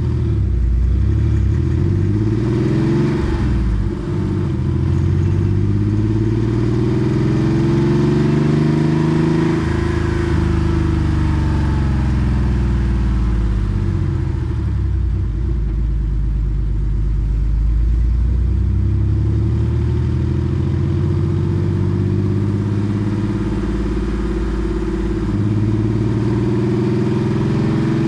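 Porsche 964 Carrera 2's air-cooled 3.6-litre flat-six, breathing through a centre straight muffler, driving with its exhaust note rising and falling with revs. The revs build, dip briefly about four seconds in, climb again, then ease off and pick up once more near the end.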